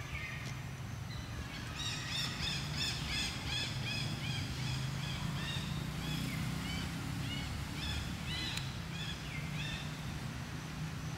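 A bird calling in a quick series of short, arched notes, about three a second, starting about two seconds in and stopping shortly before the end. Under it is a steady low hum.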